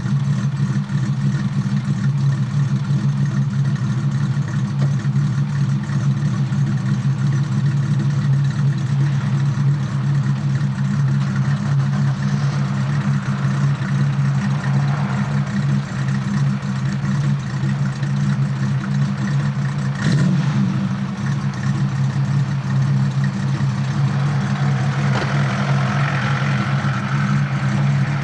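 Ford Capri 2.3-litre V6 idling steadily with a deep, V8-like idle sound through fan-type headers and a modified rear silencer. There is a sharp click about twenty seconds in, and a higher steady tone joins in over the last few seconds.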